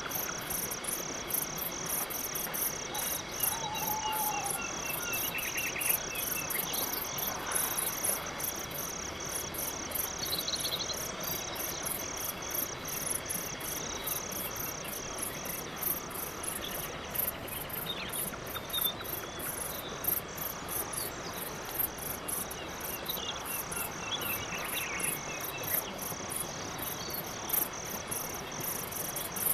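Crickets chirping in a steady, even rhythm of high pulses, pausing briefly about halfway, with a few faint scattered chirps underneath.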